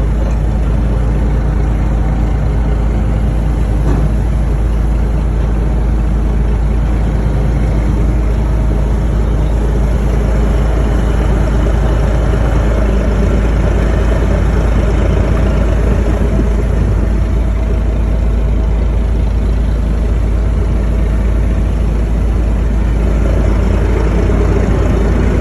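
Fishing boat's diesel engine running steadily, a loud, constant low hum with no change in pace.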